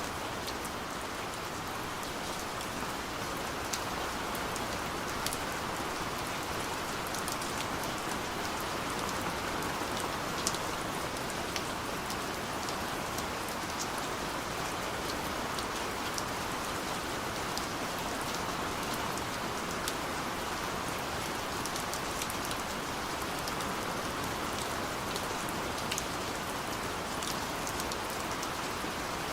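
Steady light rain falling, an even hiss with many small drops pattering distinctly on top.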